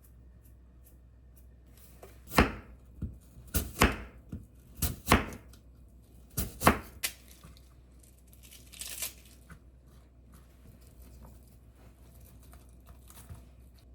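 Food-preparation handling sounds: a quick run of about ten sharp knocks and tears over five seconds, then a short rustle about nine seconds in.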